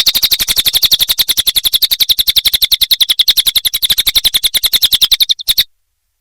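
Cililin bird singing a rapid, even trill of about thirteen notes a second, high-pitched, which stops abruptly about five and a half seconds in.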